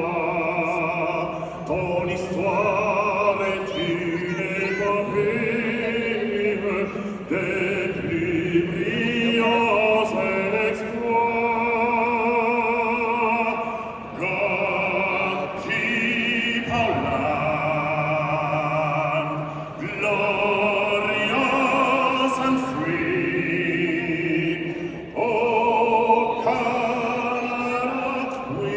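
Operatic singing with musical accompaniment: a voice holding long notes with a wide vibrato, moving from note to note every second or two.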